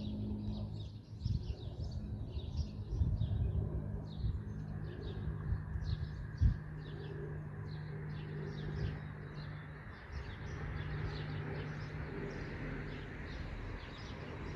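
Small birds chirping repeatedly, over a steady low hum and a few low thumps.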